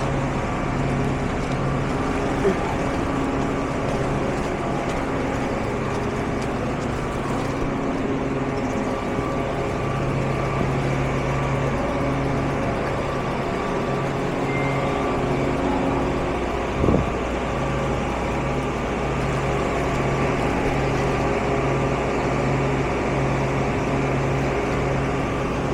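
Motor vehicle running steadily, with a low hum that pulses on and off at an even pace, and a single knock about seventeen seconds in.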